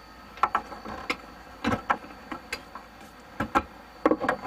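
A series of sharp knocks and clicks from tools and parts being handled and tapped during building work, about ten at uneven intervals, some in quick pairs.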